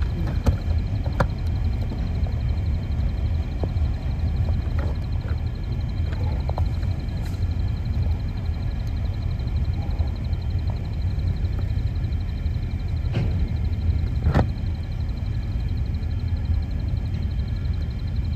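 Steady low rumble of a train of empty grain hopper wagons rolling past, heard from inside a car, with a few sharp clicks.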